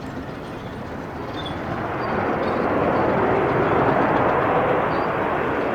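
Jet airliner engine noise swelling as the aircraft passes, loudest about three to four seconds in, then easing slightly.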